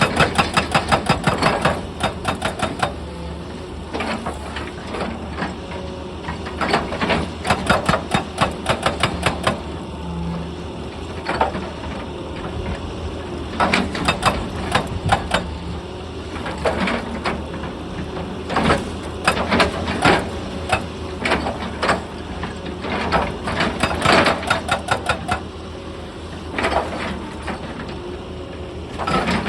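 Excavator-mounted hydraulic rock breaker hammering stone in repeated bursts of rapid blows, roughly ten a second. The bursts last one to three seconds, with short pauses between them, over the steady drone of the excavator's diesel engine.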